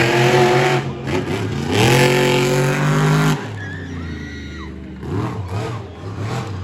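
Monster truck engine revving hard in two loud, rising bursts, the second cutting off suddenly about halfway through, then running more quietly.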